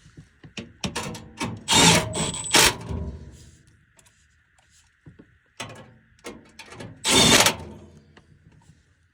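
Metal clicks, knocks and two louder scraping bursts of work on a gas furnace's blower fan assembly as it is pushed back into the cabinet and screwed in.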